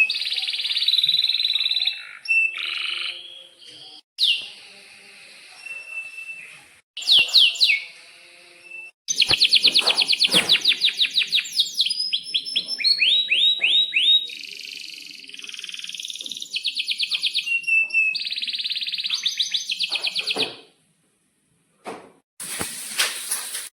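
Domestic canary singing a long, high-pitched song of rapid rolling trills, repeated chirps and sweeping phrases. The song breaks off for a moment a little after 20 seconds in, then starts again.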